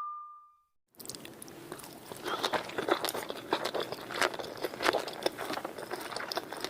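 Close-miked eating of sushi: biting and chewing with crisp crunching and wet clicking. Before that, a single ringing tone fades away in the first second, followed by a brief silence.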